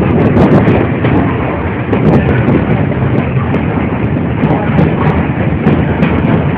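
A moving train running: a loud, continuous rumbling noise with scattered sharp clicks.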